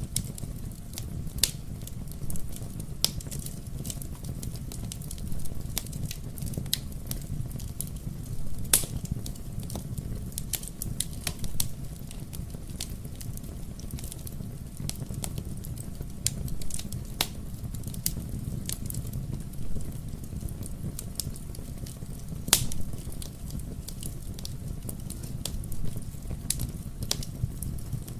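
Fire crackling in a fireplace: a steady low rumble of flames with irregular sharp pops and snaps, a couple of them louder, about a third of the way in and again about three quarters of the way in.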